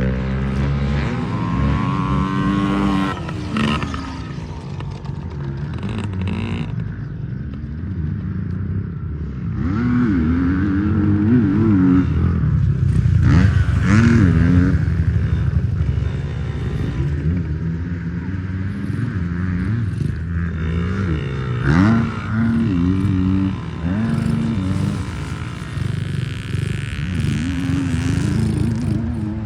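Small two-stroke minicross bike engines, a Yamaha PW50 among them, revving up and easing off again and again as the bikes ride the track. Several engines overlap, their pitches climbing and dropping out of step.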